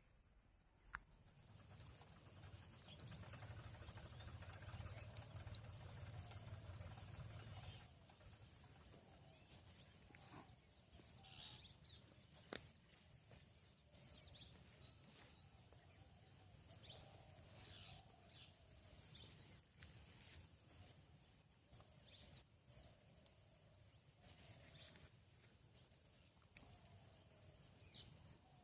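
Faint, steady high-pitched trilling of insects such as crickets, with soft short bird calls repeating every second or two. A low rumble runs under it for the first several seconds.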